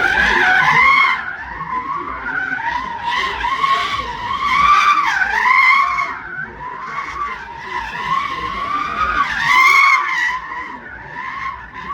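Car tyres squealing in long, wavering screeches as a car slides through the hill-climb corners, with the car's engine underneath.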